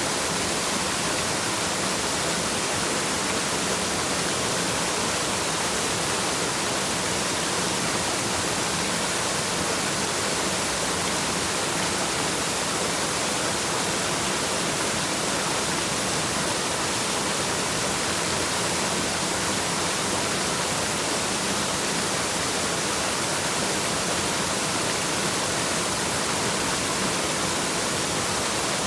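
Waterfall: a steady, unbroken rush of falling water, even in level throughout, with a bright hiss on top.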